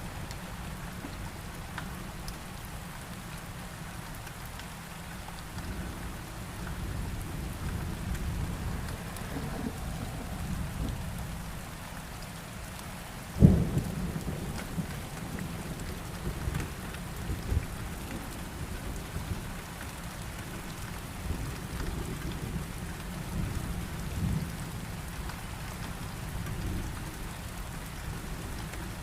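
Heavy rain falling steadily, with thunder: a sudden sharp thunderclap about halfway through, then low rolling rumbles that come and go.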